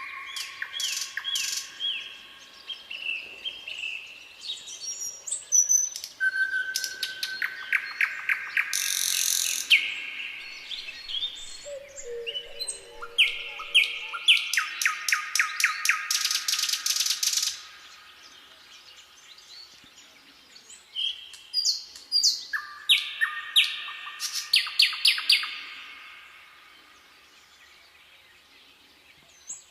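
Songbirds singing in a forest: phrases of rapid, repeated chirps and trills, several voices overlapping, with brief lulls where only faint calls remain.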